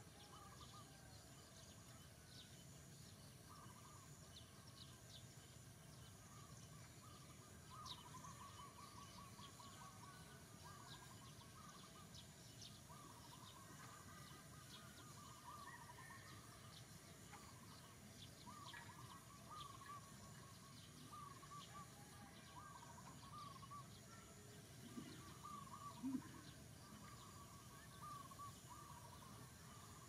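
Faint birds chirping and trilling in short repeated phrases over a low steady background hiss, with a brief louder low sound near the end.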